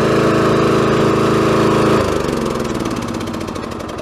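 Riding lawn mower engine running steadily, then about halfway through its pitch falls and it winds down, growing quieter.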